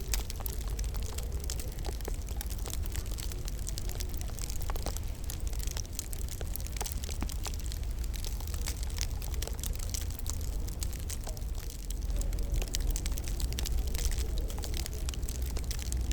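Wood fire crackling in a fireplace: a dense run of small, sharp pops and snaps over a low, steady rumble, getting a little louder about three quarters of the way through.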